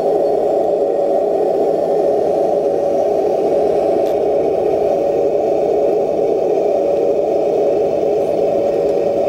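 RC Leopard tank's electric drive motor and gearbox running steadily, a continuous whirring rattle with a constant pitch.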